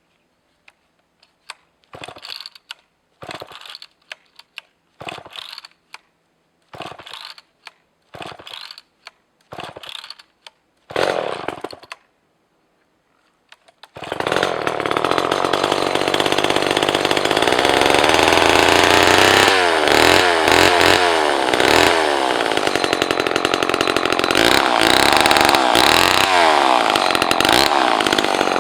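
Two-stroke chainsaw being pull-started: about nine quick pulls on the starter cord, then after a short pause the engine catches and runs, revving up and down.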